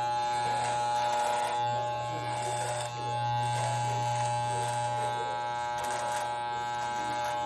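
Electric shaver running with a steady buzzing hum, briefly dipping in level about three seconds in.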